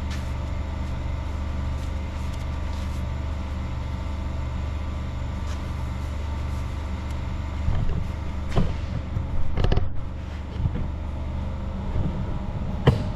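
A steady low mechanical hum, with several knocks and clattering sounds in the second half, the sharpest one near the end.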